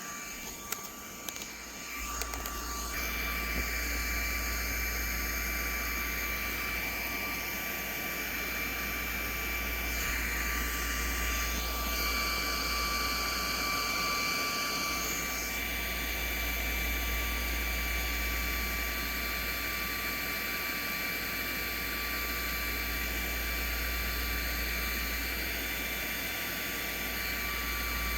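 Steady whirring hiss with two faint, even high whines running through it, and a few light clicks in the first couple of seconds.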